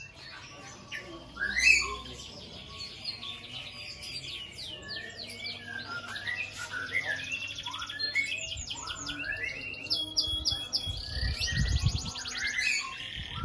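White-rumped shama (murai batu) singing a long, varied song of quick rising and falling whistles and fast rattling trills. A low thump comes about two seconds in.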